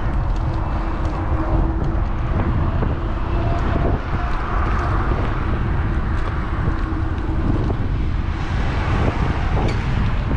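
Wind rushing over an action camera's microphone on a moving electric bike, with steady road noise. A faint steady hum runs under it for several seconds in the middle.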